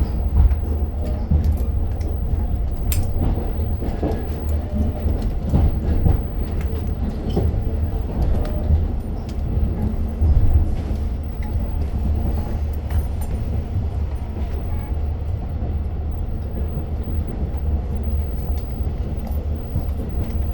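Inside a Long Island Rail Road diesel passenger coach: a steady low rumble with scattered clicks and knocks from the car.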